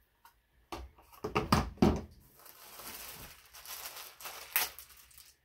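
Scissor point jabbed and worked through corrugated cardboard: a few sharp crunching knocks about a second in, followed by softer rustling of the cardboard and one more click near the end.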